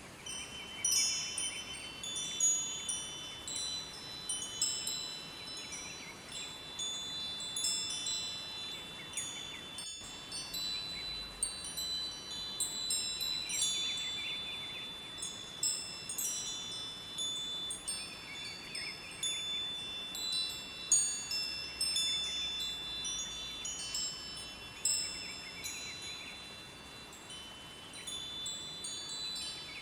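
Wind chimes ringing in irregular clusters of high, overlapping tones, over the faint steady rush of a river.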